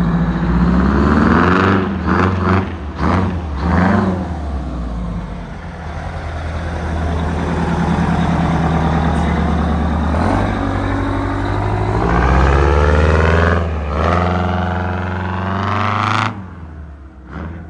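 Detroit Diesel 8V92 two-stroke V8 in a Kenworth W900A race truck, revving in several quick blips, then held at higher revs with the pitch slowly rising and falling. The sound drops away sharply about 16 seconds in.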